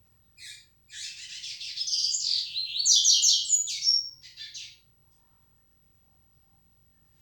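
A male coleiro (double-collared seedeater) sings one song phrase about four seconds long: a short opening note, then a fast run of high chirps and trills that grows loudest near the middle and breaks into a few separate notes at the end.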